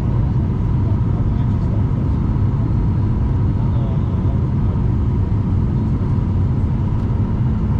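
Steady cabin rumble of a jet airliner on final approach, with a constant hum near 1 kHz over the deep engine and air noise.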